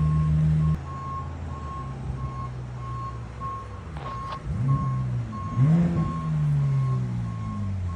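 Vehicle reversing alarm beeping evenly, about one and a half beeps a second, over a vehicle engine running low. The engine's pitch rises and falls a couple of times in the second half, and there is a brief sharp click about four seconds in.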